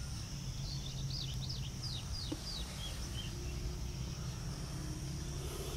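A small bird singing a quick run of short chirps that fall in pitch, lasting about three seconds, over a steady high hiss and a low rumble.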